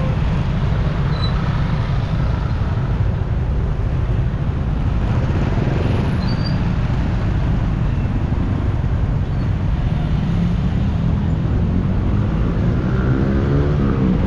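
Motorcycle riding through city traffic: a steady engine and wind rumble, with an engine revving up near the end.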